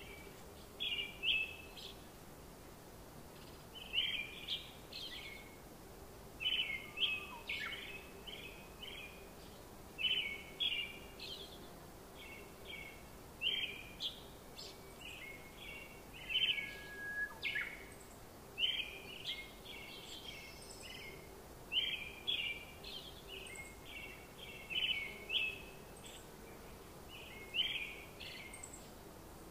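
A bird singing short chirping phrases over and over, one every second or two, with a faint steady hum underneath.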